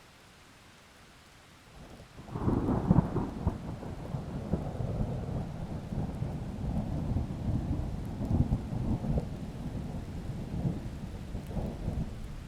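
A thunderclap over a faint rain hiss: a sudden loud crack about two seconds in, then a long low rolling rumble that goes on for about ten seconds and dies away near the end.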